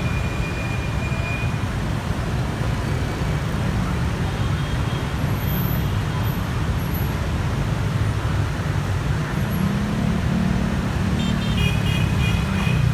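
Steady road traffic: vehicle engines running with a low rumble, one engine note rising a little in pitch a bit past the middle, and a few brief high tones near the start and near the end.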